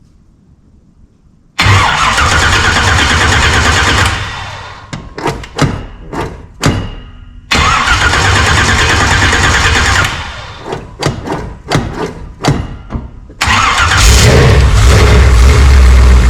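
A 406 small-block Chevy V8 being cranked over three times with loud starter cranking, each attempt followed by a string of irregular pops and sputters as it fires unevenly without settling. On the third try near the end it picks up a heavier, louder low rumble.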